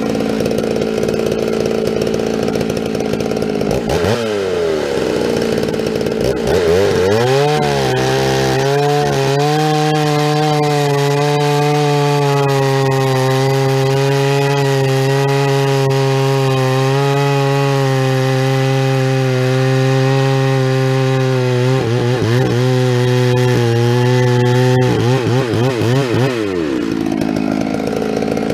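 Two-stroke chainsaw idling, blipped once, then opened to full throttle and held at a high, steady pitch for about fourteen seconds while cutting wood, before dropping back to idle near the end.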